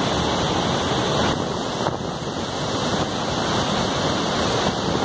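Steady rushing roar of Victoria Falls, the water crashing down the gorge, with wind buffeting the microphone.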